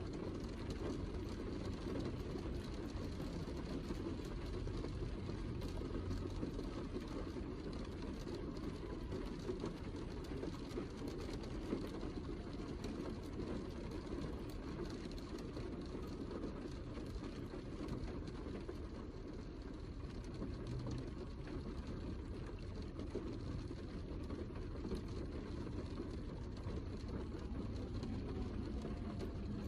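Steady heavy rain: an even, unbroken rush strongest in the low end, with faint scattered drop ticks.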